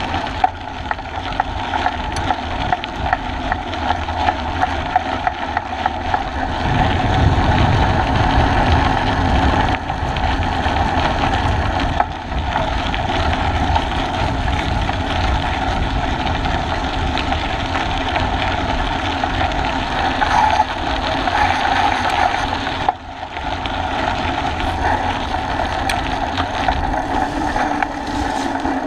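Steady rumble and rushing noise of a bicycle-mounted action camera riding along a trail, with frequent short knocks and rattles as the mount takes bumps.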